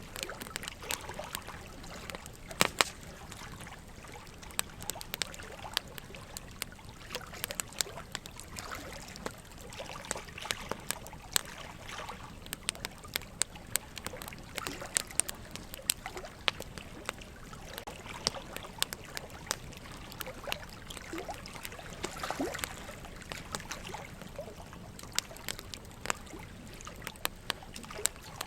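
Wood logs burning in a fireplace, crackling with frequent irregular sharp pops, over a steady trickle of running water.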